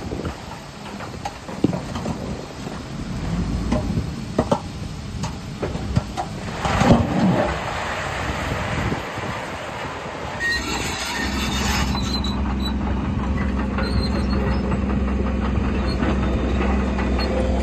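Crawler bulldozer working over stone: steel track links clanking and squealing, with scattered knocks in the first half. From about eleven seconds in, the diesel engine runs steadily under load.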